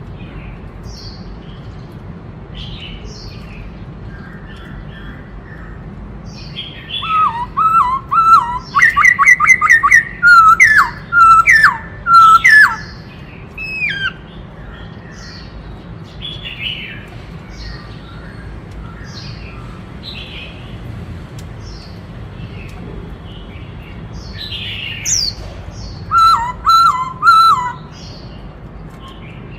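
Black-throated laughingthrush singing: softer scattered calls broken by two loud bouts of rapidly repeated whistled notes, the first about seven seconds in and the second near the end.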